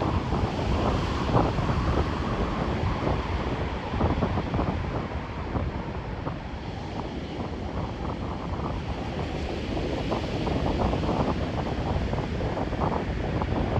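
Wind buffeting the microphone over the continuous rush of heavy surf on a rough sea.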